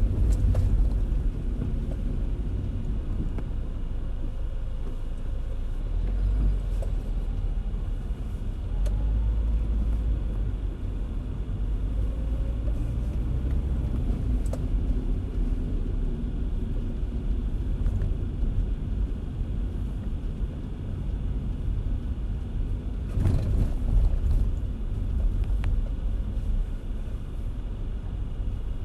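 Car driving in the rain: a steady low rumble of road and engine noise, with a brief louder surge about 23 seconds in.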